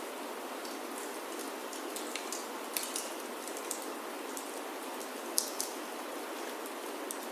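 Steady rain falling on a wooden chalet roof, with a few sharp crackles from a wood fire in the fireplace scattered through, the loudest about five and a half seconds in.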